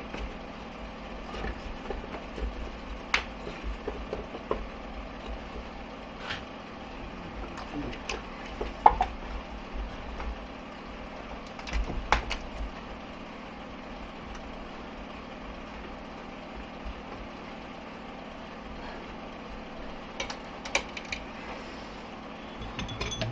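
Scattered light metallic clicks and knocks as gearbox parts are handled and fitted by hand during assembly, over a steady low hum. The loudest knocks come about nine and twelve seconds in.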